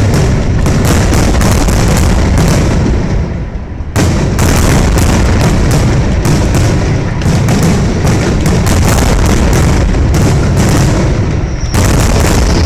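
Fireworks display going off in a dense, continuous barrage of booms and bangs. The barrage eases briefly about three seconds in, then a fresh volley of explosions starts sharply.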